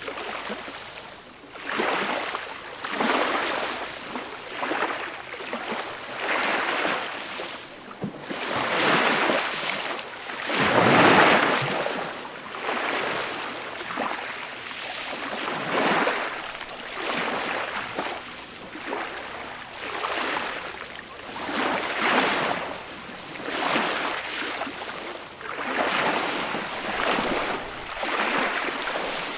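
Small waves washing up the shore one after another, a swell of hiss every second or two, with one bigger wave about eleven seconds in.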